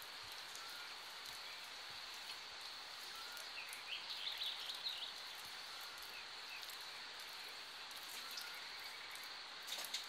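Birds chirping at dusk, a small cluster of quick chirps about four to five seconds in and a few scattered calls elsewhere, over a steady faint hiss of evening background noise.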